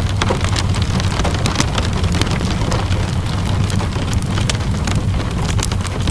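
Steady rainfall mixed with a crackling wood fire: scattered sharp pops and snaps over a constant rush of rain and a steady low rumble.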